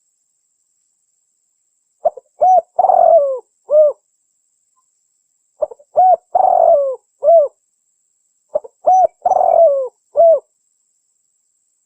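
Spotted dove (tekukur) cooing in three phrases about three seconds apart. Each phrase is a few short coos around a longer rolling coo. It is a recorded lure call, played to attract wild doves.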